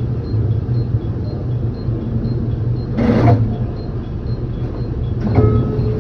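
Electric commuter train running, heard from inside the carriage: a steady low hum of motors and wheels, with a brief louder rattle about three seconds in and another near the end.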